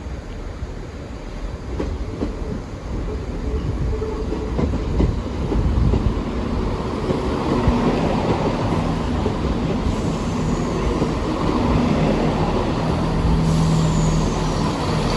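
Diesel multiple unit train running into the platform. The engine drone and wheel rumble grow louder over the first few seconds, then hold steady, with two faint high squeals in the second half.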